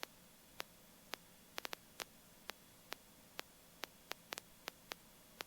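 Near silence: a faint hiss broken by short, irregular clicks, about three a second.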